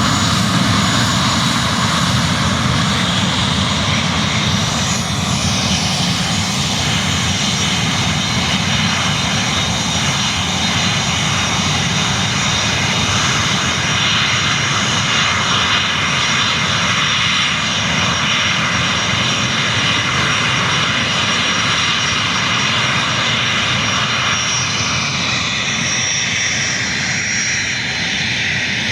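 Boeing jetliner's engines running at takeoff power, a loud steady rush of noise with a thin high whine, easing slightly near the end.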